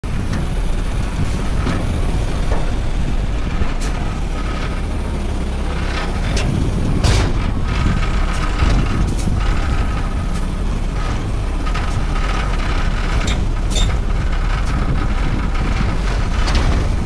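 Front-load garbage truck running: a steady low engine rumble with scattered clanks and knocks, and a faint thin whine that comes and goes from about six seconds in.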